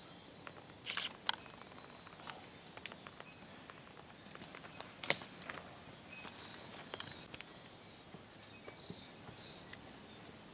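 A songbird singing two short phrases of three high, clear notes each, about six and nine seconds in. Before them come a few sharp clicks, the loudest about five seconds in.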